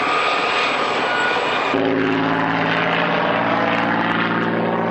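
Aircraft engine noise. At first it is a steady rush with a high whine. About two seconds in it changes abruptly to the steady, even drone of a propeller aircraft's piston engine.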